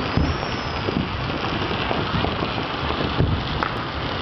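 Dense, steady crackling of many firecrackers and fireworks going off across the city, with a few low booms from bursts, one near the start and another about three seconds in.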